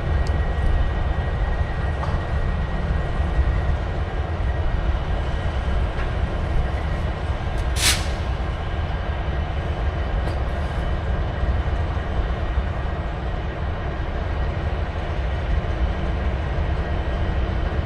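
Train rumbling steadily and low, with a single sharp click about eight seconds in.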